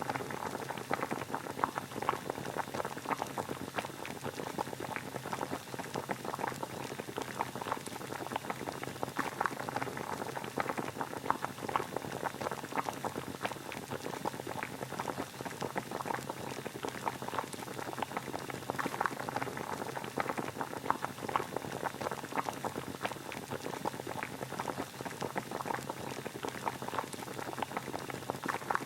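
Water boiling at a steady rolling boil, with a dense stream of small bubbling pops.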